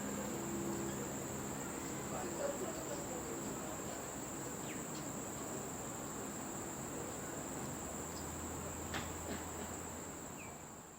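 Insects trilling steadily on one high, unbroken tone over a background hiss. A faint low hum drops away after about two seconds, and the sound fades out at the end.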